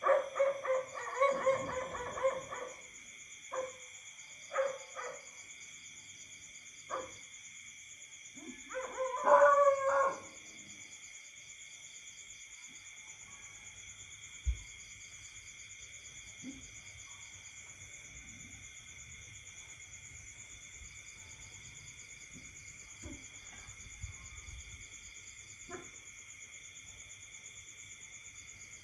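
Night insect chorus: a steady high-pitched buzz with a pulsing trill over it. During the first ten seconds a run of loud, short animal calls sounds over the insects, the loudest about nine seconds in; after that only a few faint single calls.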